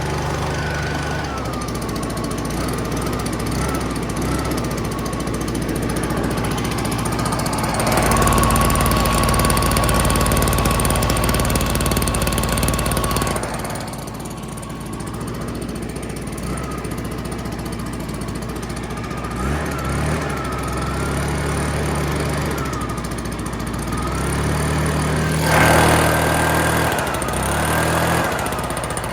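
Stihl BR420 backpack blower's two-stroke engine running while it warms up after a cold start, its speed wavering up and down. About eight seconds in it is held at a steadier, higher speed and gets louder for about five seconds, then drops back and wanders again, with more throttle changes near the end.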